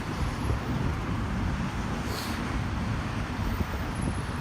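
Steady low outdoor rumble of road traffic, with a brief faint hiss about two seconds in.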